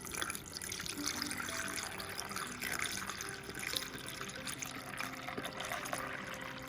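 Water being poured steadily into a container, starting suddenly, as water goes into a measuring cup or a coffee maker's water reservoir. Faint background music plays underneath.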